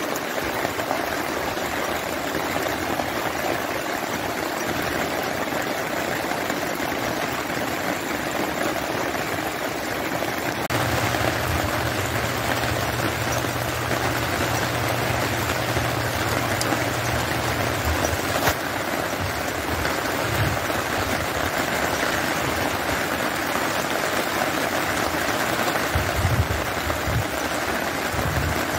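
Steady rain falling, an even hiss of rain on the ground with no let-up. From about ten seconds in, a low steady hum runs under the rain for several seconds, and a single click comes soon after it stops.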